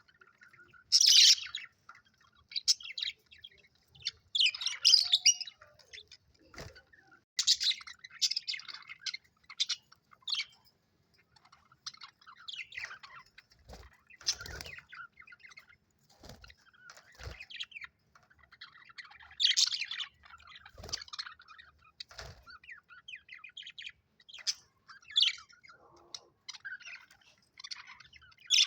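Budgerigars chirping and warbling in bursts of high, scratchy chatter with short pauses between.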